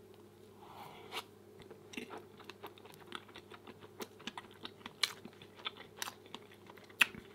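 Close-miked chewing of soft pancakes (flapjacks): irregular wet mouth clicks and smacks, several a second, over a faint steady hum.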